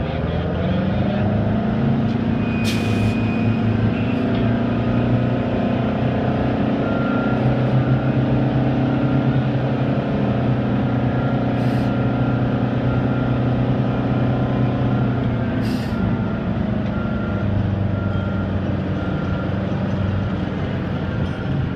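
Detroit Diesel engine of an American Hoist & Derrick 9530 crawler crane. It revs up over about two seconds, runs at a high steady speed for some fifteen seconds, then drops back to a lower speed. A few sharp clicks and a faint short beep repeating on and off sound over it.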